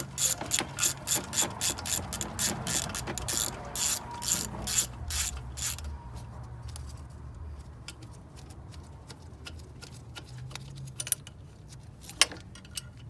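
Socket ratchet with a 10 mm socket, its pawl clicking rapidly as a bolt is backed out, about three to four clicks a second for roughly six seconds. A few scattered clicks follow near the end.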